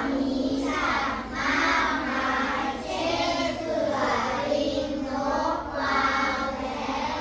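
A class of children's voices calling out together in a drawn-out chorus, one phrase after another, each about a second long.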